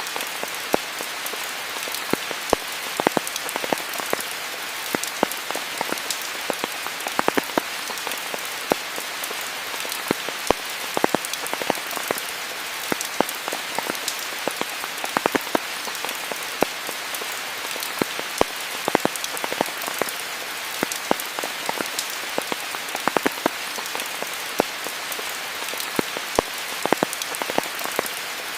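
Steady rainfall: a constant hiss of rain with many sharp, close drop impacts ticking at irregular intervals.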